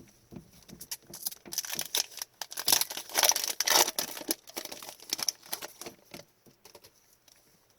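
Rustling and a run of light clicks from hockey trading cards and their packaging being handled, busiest about two to four seconds in, then thinning out.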